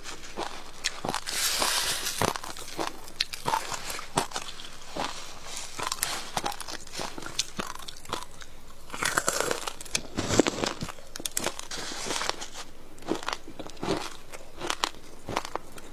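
A person biting and chewing frozen passion fruit ice, with a run of sharp, irregular crunches. The crunching comes in two denser, louder bouts, about two seconds in and again around ten seconds in.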